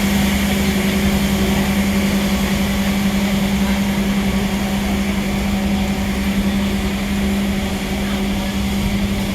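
Steady mechanical running noise inside a passenger railway carriage: a strong, even low drone over a constant rushing noise.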